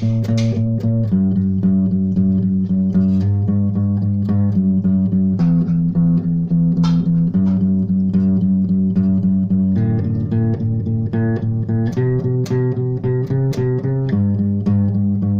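Instrumental music: plucked guitar with bass playing a slow, gentle tune, the chord changing every second or two.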